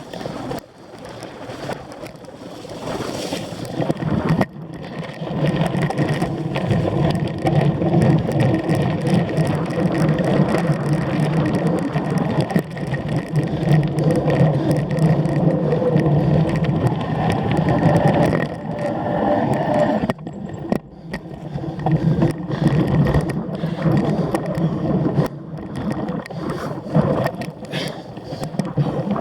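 A cyclocross bike being ridden hard over a race course: a steady rolling rumble of tyres and drivetrain, broken by frequent clicks, knocks and rattles from the bike over rough ground.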